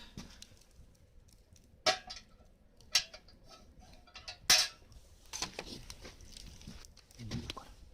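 Cookware being handled: three sharp clinks or knocks about two, three and four and a half seconds in, with soft rustling and small taps between them.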